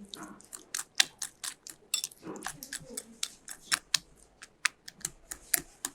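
A utensil clicking and tapping against a bowl in quick, irregular light strokes, several a second, while a mayonnaise sauce with chopped pickles is mixed.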